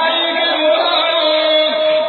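Male nasheed vocal chanting, with a long held note running most of the way through and a new phrase starting near the end.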